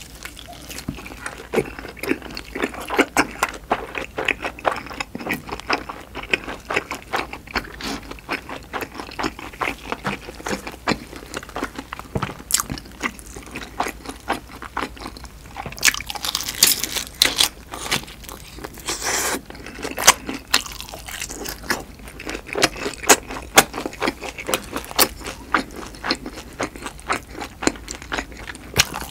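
Close-miked chewing of pan-fried duck bulgogi dumplings: a steady run of wet, sticky mouth clicks, with louder bursts of crunching from the browned crust past the middle.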